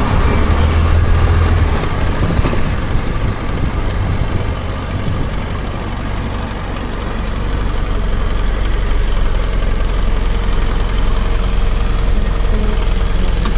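BMW F800GS parallel-twin engine running under the rider, with road and wind noise. The engine note eases off about five seconds in, then settles into a steady low drone.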